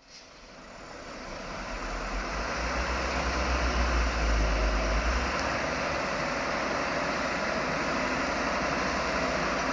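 Heavy truck diesel engine running, fading in over the first couple of seconds, with a deep rumble strongest from about two and a half to five seconds in, then holding steady.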